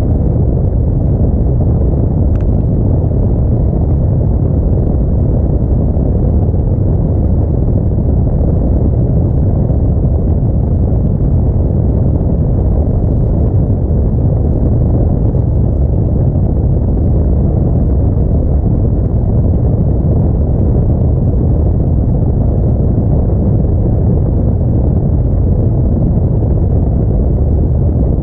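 Steady low rumble of an Audi A4 driving in snow: engine, tyre and road noise with no change in pace. There is a faint click about two seconds in.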